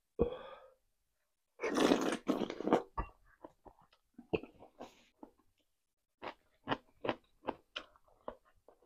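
Close-miked eating of rotisserie chicken from a spoon: a quick slurp just after the start, a loud stretch of chewing, then a run of wet smacking chews and mouth clicks.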